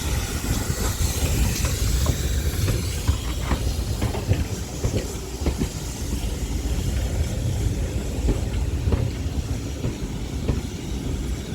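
Steam-hauled train of GWR 4500 class tank engine 4555 Warrior moving slowly in the station: a steady low rumble with irregular clicks and knocks of wheels over rail joints, and a hiss of steam.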